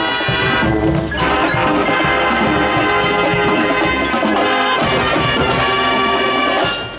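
High school marching band's brass playing loud held chords over percussion, the chord changing about a second in and again near five seconds, with a brief break just before the end.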